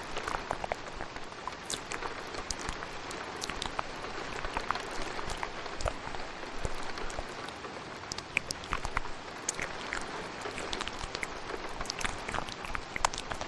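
Steady rain with scattered short, sharp wet clicks of close-mic mouth sounds layered over it.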